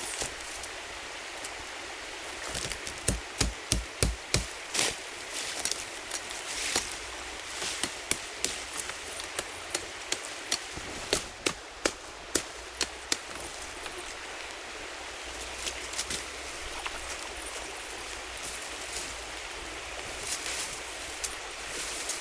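Chopping: repeated sharp tool strikes on wood, a quick run of hard blows a few seconds in, then scattered strikes that thin out past the middle.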